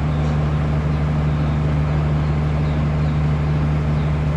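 Heavy diesel engine running steadily at a constant speed, a low even hum with no change in pitch.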